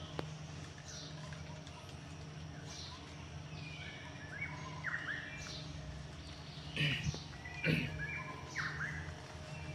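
Forest birds calling: a high, falling call repeated about every two seconds, with shorter chirps joining from about halfway through.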